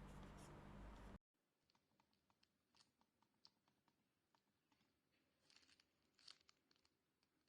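Near silence with faint, soft, scattered clicks, a few spread out and a small cluster near the end, as from the muted buttons of a Logitech M221 silent mouse. About a second in, the steady background hiss cuts out abruptly.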